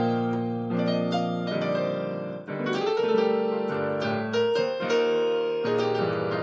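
Keyboard in a piano sound playing sustained gospel-style chord movements, a new chord about every second.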